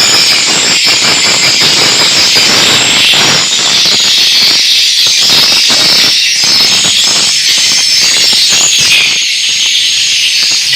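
Swiftlets (burung walet) twittering and chirping in a dense, unbroken high-pitched chorus, the 'call and roost' sound used to lure edible-nest swiftlets into a swiftlet house. Crackling runs underneath.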